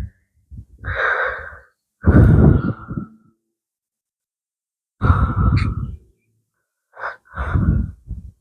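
A man breathing out heavily close to the microphone: four long breaths of about a second each, with pauses between.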